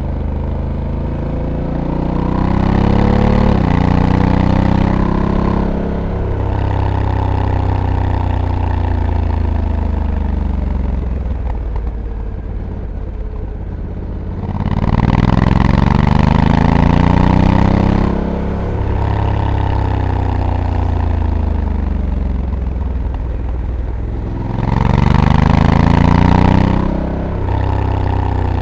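Honda Africa Twin DCT's 1084 cc parallel-twin engine heard on board, accelerating hard three times with the pitch climbing and dropping at each automatic gear change, then easing off and winding down between the pulls.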